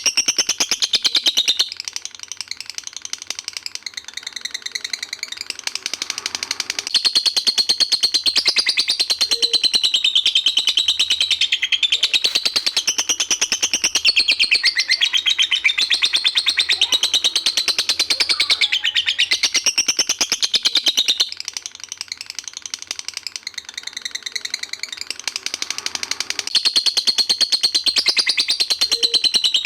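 Songbird recording for masteran (teaching song to competition birds): a fast, continuous chattering song of rapid high notes, dipping quieter twice.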